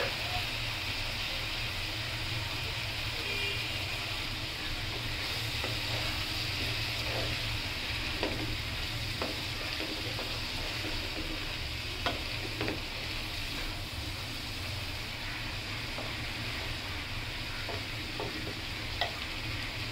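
Chopped spring onion greens sizzling in a non-stick frying pan as they are stirred with a wooden spatula, with a few light taps of the spatula against the pan, over a steady low hum.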